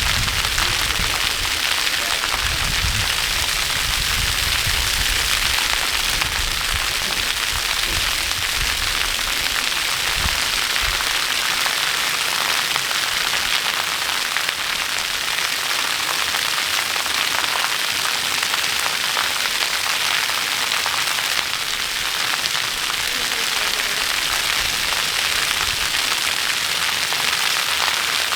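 Steady rushing of falling water, an even hiss with no break. Low bumps on the microphone come and go during the first ten seconds or so.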